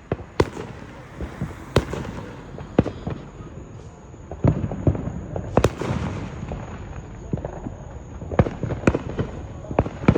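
Backyard fireworks going off across a neighborhood: about a dozen sharp bangs and pops at irregular intervals, some loud and close, others fainter, over a low rumble of more distant explosions.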